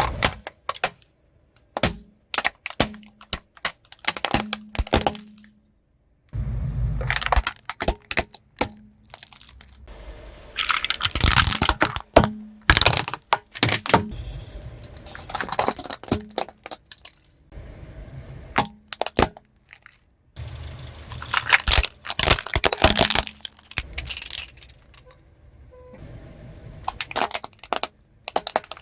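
Plastic toy vehicles cracking and snapping as car tyres roll over and crush them, in several separate runs with a low tyre rumble under some of them.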